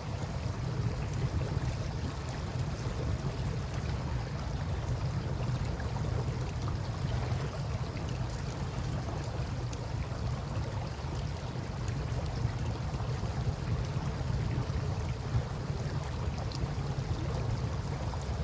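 Steady rush of river water with a low rumble underneath, and faint scattered crackles from a wood campfire.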